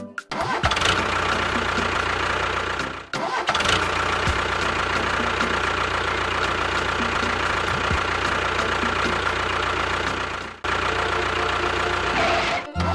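A motor running steadily, broken by short drops about three seconds in and near the end.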